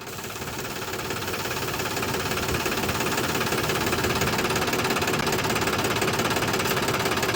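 Small motor of a DIY model mini tractor running steadily with a rapid, even pulse. It fades up over the first couple of seconds and then holds level.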